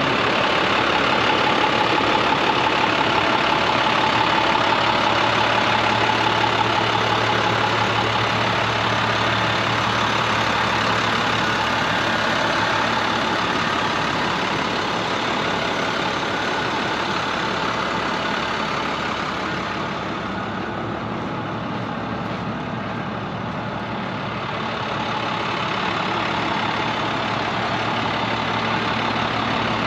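2006 International 4300 truck's diesel engine idling steadily; the sound turns slightly quieter and duller for a few seconds about two-thirds of the way through.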